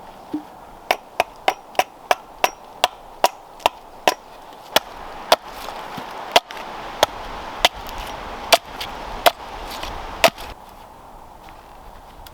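Wood being chopped with a blade: a quick run of about ten strokes, roughly three a second, then slower, louder strokes spaced about a second apart.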